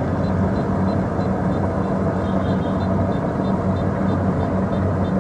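Kubota DC-70 Plus combine harvester running steadily, its diesel engine and threshing gear making an even hum, with a faint regular ticking about three times a second.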